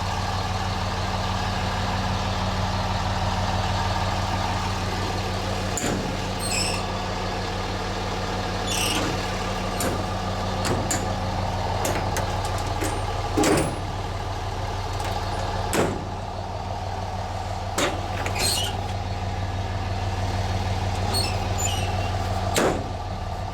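2005 Dodge Ram 3500's 5.9 L Cummins straight-six turbo diesel idling steadily. Several short, sharp knocks sound over it at irregular intervals.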